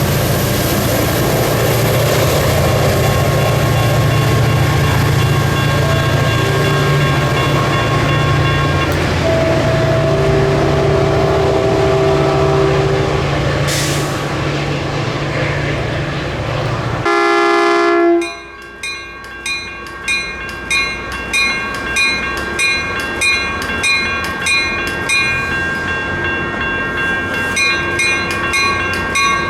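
Caltrain diesel commuter train passing with a loud steady rumble, its horn sounding through the first half. After an abrupt cut, a bell rings over and over, about once every 0.7 s.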